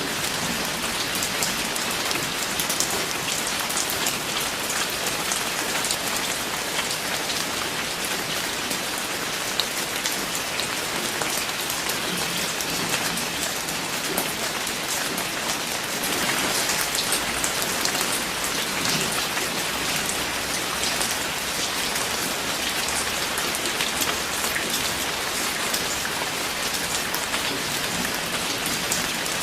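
Steady rain falling, with dense pattering of individual drops on a surface.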